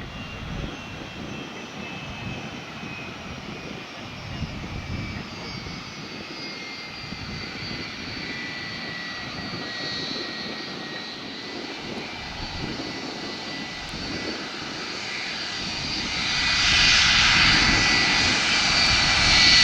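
Jet airliner engines running, a high whine of several tones that slowly drops in pitch over a low rumble, then growing louder and noisier about sixteen seconds in.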